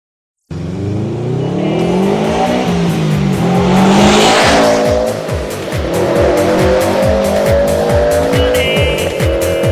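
Subaru Impreza Turbo engine revving, its pitch rising and falling, with a hissing surge about four seconds in. From about halfway an electronic dance beat with a steady kick drum, about two beats a second, plays under it.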